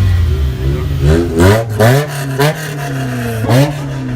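A car engine idling and being revved in about five quick blips, each rising sharply in pitch and dropping back.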